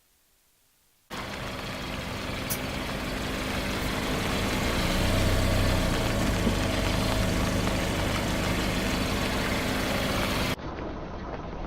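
Car engine running slowly and steadily, cutting in suddenly about a second in and growing a little louder midway, then switching abruptly to a duller engine sound near the end.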